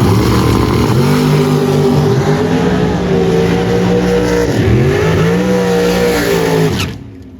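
Drag race car launching and accelerating hard down the strip at full throttle, engine pitch climbing, dipping sharply at a gear change about four and a half seconds in. The engine sound falls away suddenly near the end.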